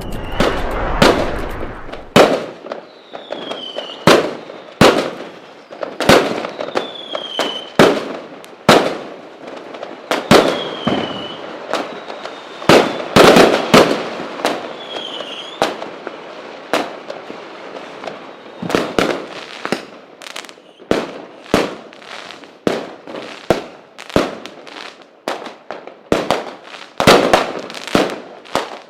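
Fireworks display: a steady string of loud firework bangs, roughly one a second, with a few short falling whistles among them.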